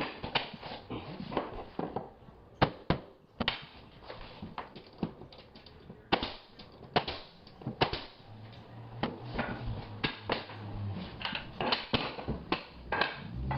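Hardwood flooring boards being knocked tight and nailed down: a run of sharp, irregular knocks and clicks, a few much louder than the rest.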